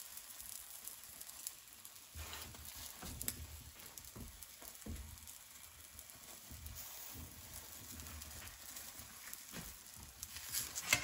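Omelette sizzling faintly in a hot stainless steel skillet, with scattered light taps and scrapes as a spatula presses it against the pan. The taps grow louder near the end.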